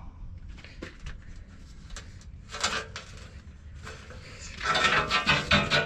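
Metal clinking and clanking of hand tools against steel parts on a track loader during repair. There are scattered clicks at first, a short clatter, then a busier run of knocks and rattles from about two-thirds through.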